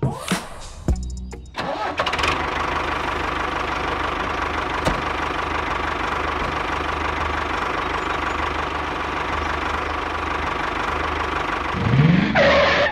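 Tractor engine starting and then running steadily, rising in revs near the end before it cuts off suddenly.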